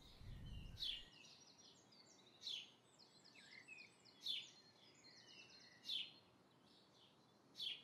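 Faint birds chirping, with a sharp call about every one and a half to two seconds and softer twittering between.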